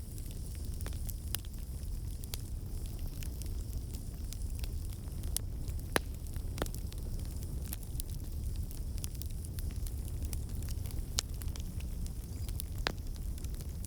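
Wood fire in a fireplace crackling: irregular sharp pops and snaps scattered over a steady low rumble, a few pops standing out louder than the rest.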